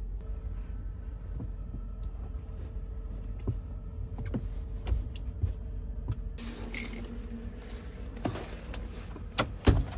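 Low steady rumble of a semi-truck heard from inside the cab, with scattered clicks and knocks. About six seconds in, a rushing noise comes in, and two sharp loud knocks follow near the end.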